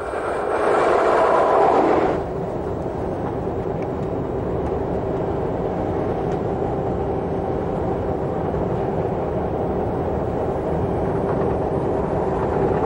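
Train running along the track with a steady rumble, louder for the first two seconds.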